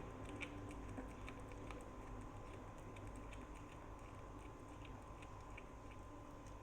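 Cat chewing and crunching food: faint, irregular small clicks, several a second, over a steady faint hum.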